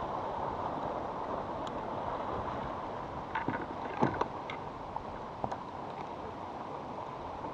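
Steady rushing noise of a kayak out on open water, with a few short sharp clicks and knocks in the middle.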